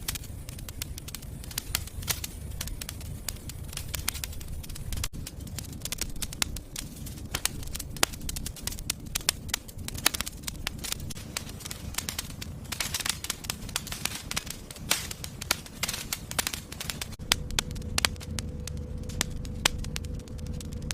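Wood fire in a fireplace crackling, with frequent irregular sharp pops over a low steady rumble of flame. A faint steady hum comes in near the end.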